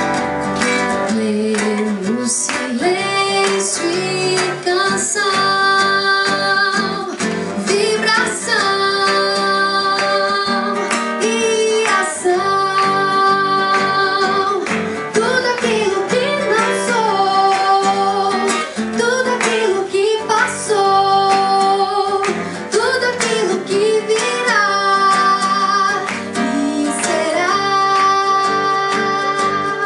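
A woman singing a Portuguese worship song to acoustic guitar accompaniment, holding long notes with vibrato.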